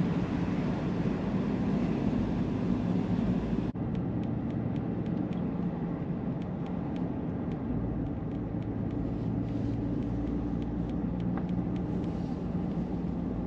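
Steady engine and road noise heard from inside a vehicle driving along at constant speed. About four seconds in the sound changes abruptly, and faint light ticks come and go after that.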